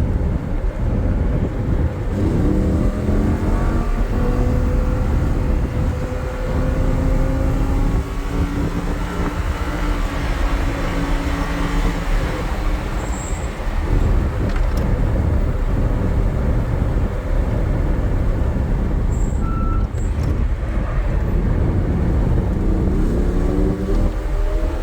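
Lamborghini Huracan's V10 engine and exhaust under hard acceleration on a race track, the note climbing in pitch for several seconds. It breaks off about halfway through, then builds again near the end.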